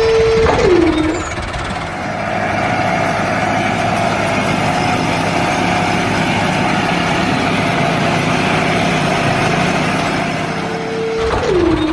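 Mini model tractor's small motor running with a steady mechanical drone. A high whine drops in pitch about a second in and again near the end, as if the motor slows under load.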